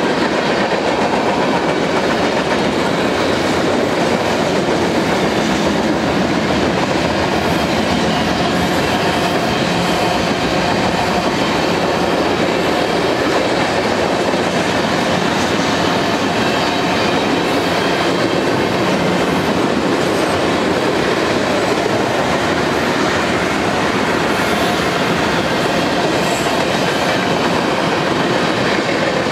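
Freight cars of a mixed manifest train (boxcars, tank cars, an autorack) rolling past, their steel wheels running on the rail in a steady, unbroken rolling noise; the locomotives are already well past.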